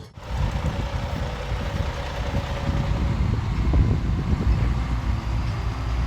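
Truck engine running steadily, a low rumble.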